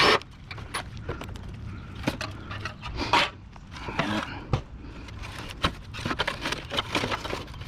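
Irregular clinks, knocks and scrapes of metal parts and tools being handled while a window air conditioner is taken apart for scrap.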